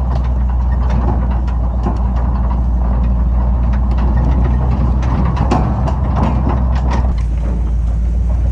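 The 1955 GMC 100's 316 Pontiac V8 running at low speed as the truck is moved, a steady low engine note with the mid-range noise easing off about seven seconds in.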